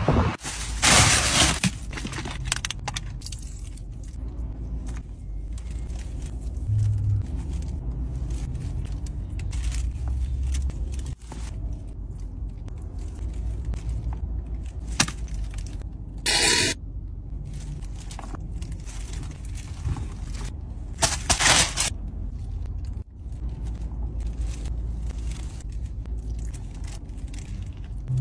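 Steady low rumble of a car idling, heard from inside the cabin, with hands handling and scraping food on a metal tray. Three brief, loud bursts of noise stand out: about a second in, a little past the middle, and about three-quarters through.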